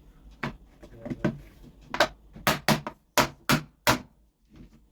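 A series of about nine sharp, short knocks. They start out scattered and faint, then come louder and faster, about three a second, from about two seconds in.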